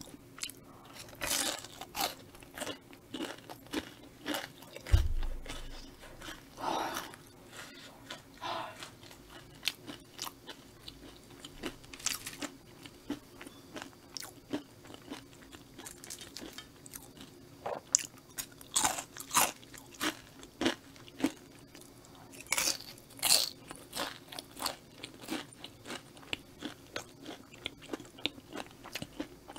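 Close-miked crunching and chewing of battered Korean fried snacks (twigim): irregular crisp crackles of the fried coating breaking between the teeth. A single low thump comes about five seconds in.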